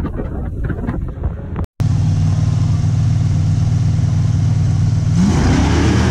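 Wind and road noise from a moving car, then two street-race cars at the start line running their engines at steady raised revs, rising sharply in pitch about five seconds in as they launch.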